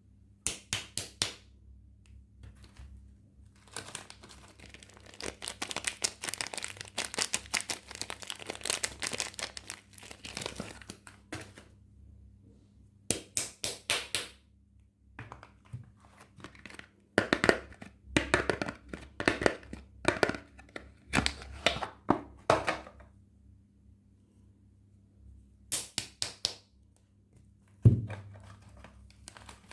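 Soap packaging being unwrapped by hand: wrappers crinkling and tearing in bursts with pauses between them. Near the end there is one sharp thunk, like a bar being set down on a hard surface.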